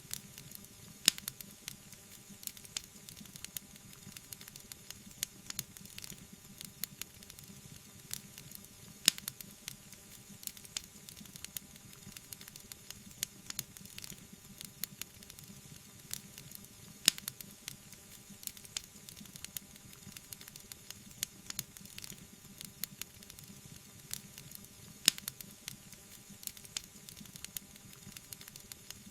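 Wood fire burning: a steady soft hiss and rumble with constant small crackles, and a few sharp, louder pops every several seconds.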